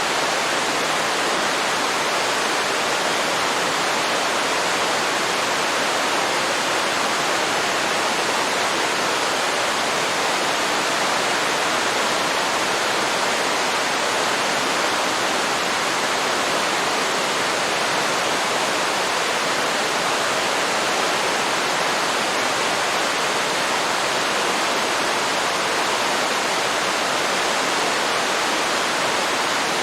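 Waterfall pouring into a river, a steady even rush of falling water.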